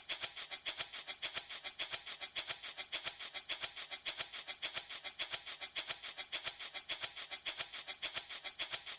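Handmade baby rattle shaken rapidly and steadily, about six or seven shakes a second, giving a dry, high-pitched rattling.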